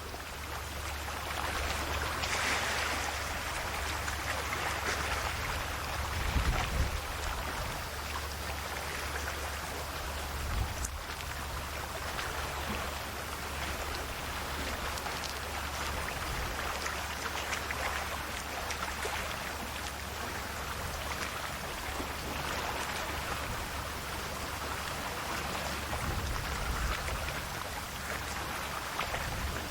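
Calm sea waves washing and lapping on the shore, a continuous hiss that swells and eases every few seconds, over a steady low rumble.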